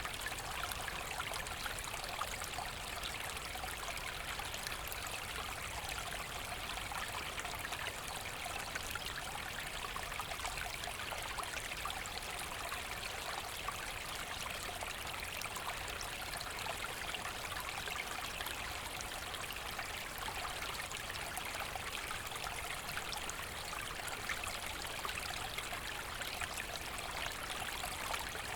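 A forest brook running and splashing over stones, a steady even rush of water with no pauses.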